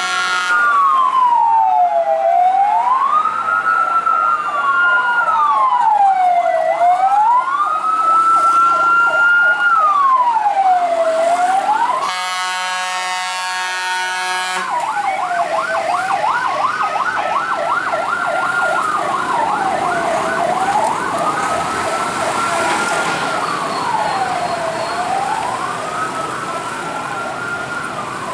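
Fire truck sirens wailing, rising and falling about every three seconds, with a second siren sweeping over them. Partway through, a steady horn-like tone sounds for about three seconds.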